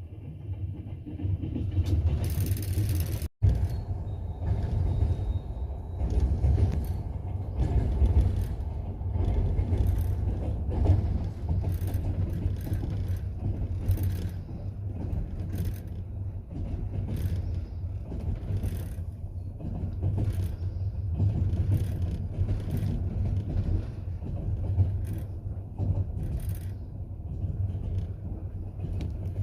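Double-decker passenger train running, heard from inside the carriage: a steady low rumble with the clack of the wheels over rail joints coming at irregular intervals. The sound cuts out for an instant about three seconds in.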